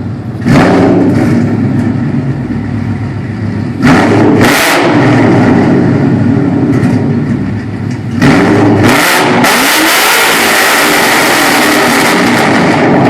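The 5.0 V8 of a 2012 Mustang GT, breathing through a quad exhaust that exits at both sides and rear, revved hard three times in an enclosed car wash bay. The third rev is held high for several seconds, and the sound is way too loud and echoes off the walls.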